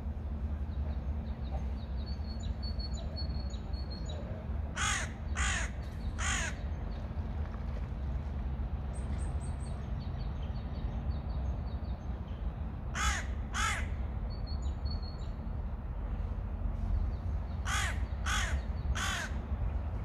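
A large bird calling in three bouts of loud, evenly spaced calls: three about five seconds in, two around the middle, and three more near the end. Faint high chirps of small birds sound in between, over a steady low rumble.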